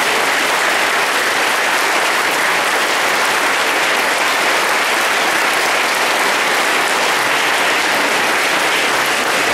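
An audience applauding steadily: many hands clapping in a dense, even sound with no break.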